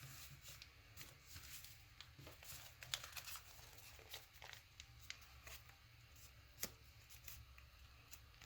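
Paper being folded and creased by hand: faint rustling and crinkling broken by short, sharp clicks, over a low steady hum.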